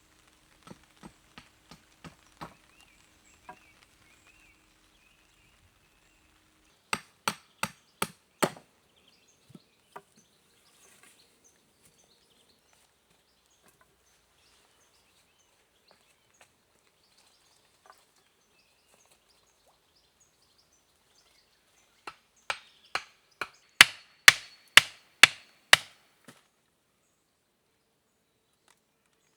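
Wood being chopped: a few light taps, then four hard strikes about seven seconds in, a long pause, and a quick run of about ten hard strikes near the end, roughly two a second.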